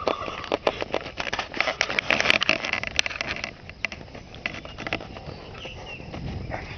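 Footsteps of a person walking on outdoor ground: a dense run of sharp, clicking steps for the first three and a half seconds, then softer, quieter steps.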